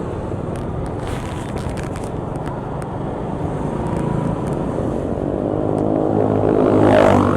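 Road traffic engine noise, steady at first, with a vehicle's engine growing louder and rising in pitch until it passes close just before the end.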